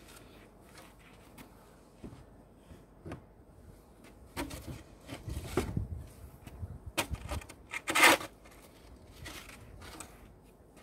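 Footsteps trudging through deep snow, with irregular crunches and scuffs. A louder crunch comes about eight seconds in.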